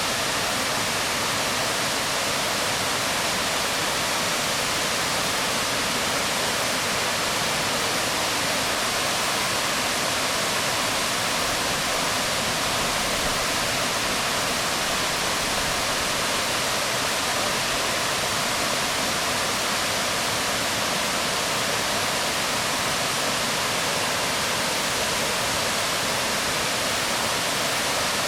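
Waterfall pouring onto rocks: a steady, unbroken rush of splashing water.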